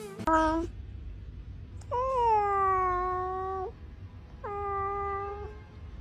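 A cat meowing three times: a short meow, then a long drawn-out one that falls in pitch and then holds, then a shorter one.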